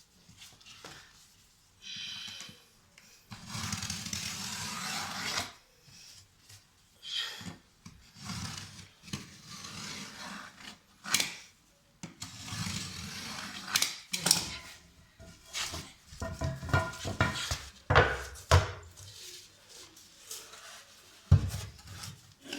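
Hand work on drywall pieces: irregular scraping and rubbing, with a longer scrape a few seconds in and several sharp knocks and clatters in the second half.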